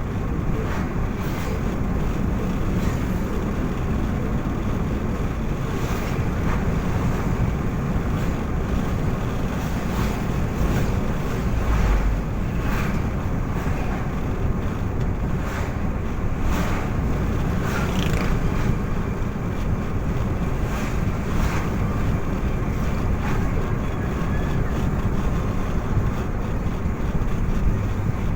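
Steady low rumble of a moving vehicle, engine and road noise, with wind buffeting the microphone and scattered light knocks and rattles.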